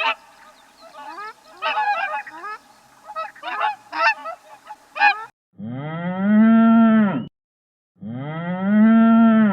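Several geese honking in quick, overlapping short calls, then a cow mooing twice, each moo a long, steady low call of about a second and a half.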